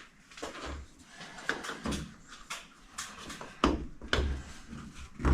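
A string of small clicks and knocks, several over a few seconds with the loudest about two-thirds of the way through, from hands pushing LED bulbs down into their sockets in a cab light housing.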